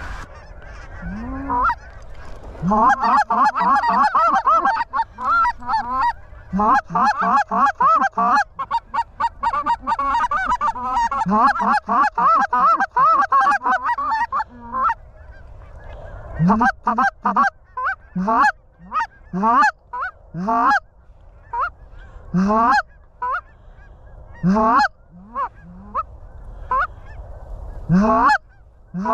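Goose honks and clucks: a fast, dense run of overlapping calls for about twelve seconds, then single rising honks about once a second.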